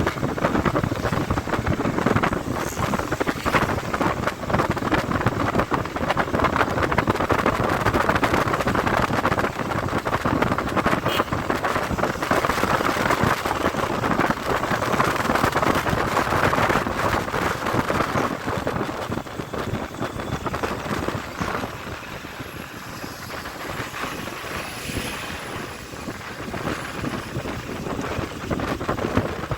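Wind rushing over the microphone of a moving motorcycle, a loud ragged rush of noise that eases off for a few seconds after about twenty seconds and picks up again near the end.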